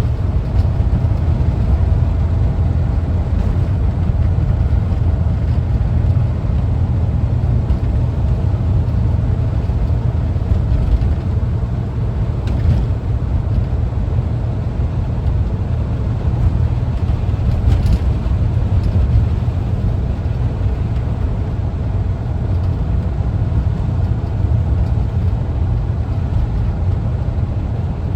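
The air-cooled engine of a 1974 Volkswagen Westfalia camper van running steadily, heard as an even low rumble with a faint hum above it, as the van is driven.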